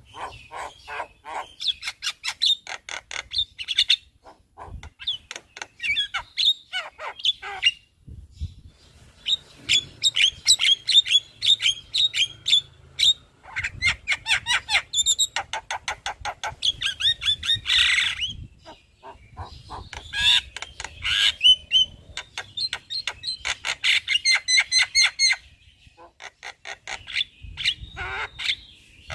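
Javan myna (jalak kebo) singing in full voice: long runs of fast chattering notes mixed with whistles and harsh calls, in phrases several seconds long broken by brief pauses.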